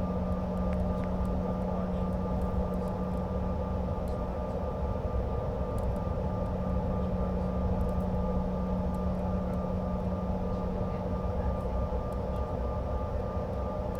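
Steady cabin drone of a CRJ-550 regional jet's two rear-mounted turbofan engines heard from inside the cabin, with a constant hum and a few steady tones over a low rumble.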